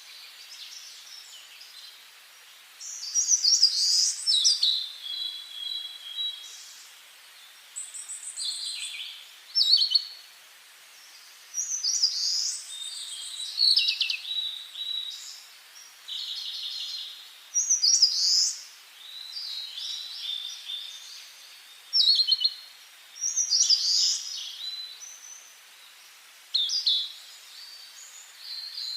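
Wild songbirds singing in short, high phrases of trills and quick falling notes, a new phrase every two to three seconds over a faint steady background hiss.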